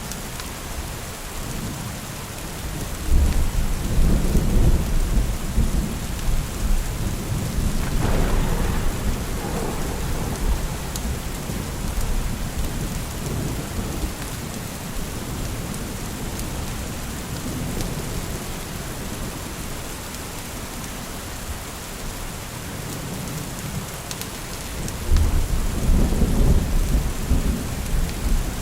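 Steady rain with thunder: a low rumble swells about three seconds in, a sharper peal comes around eight seconds, and another rumble starts near the end.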